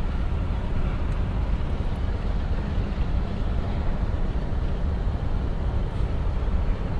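Steady low rumble of vehicle-type background noise, even throughout with no distinct events.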